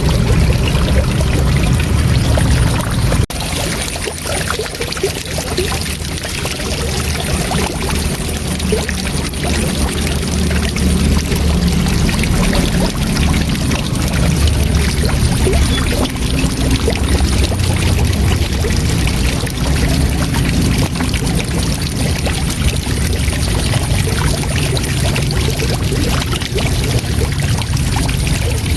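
Waterfall rushing: a steady, full roar of falling water, heaviest in the low end. A brief break about three seconds in, after which it runs on slightly quieter.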